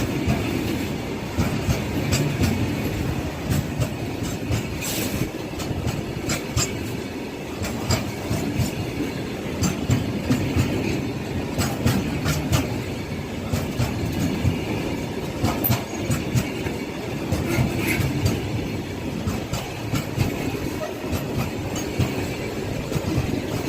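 Freight train of BCNA covered wagons rolling past, a steady rumble of steel wheels on rail with frequent irregular clanks and clicks as the wheels cross rail joints.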